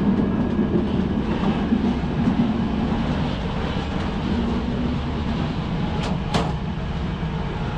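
Steady rumble of a moving passenger train carriage, heard from inside its lavatory. Two sharp clicks come about six seconds in.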